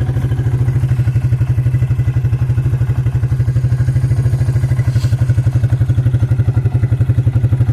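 Suzuki King Quad ATV's single-cylinder four-stroke engine idling steadily with an even, rapid pulse, warming up shortly after a cold start.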